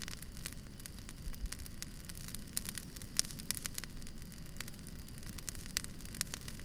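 Wood campfire crackling: irregular sharp pops and snaps over a low steady rumble of the burning fire, with one sharper pop about three seconds in.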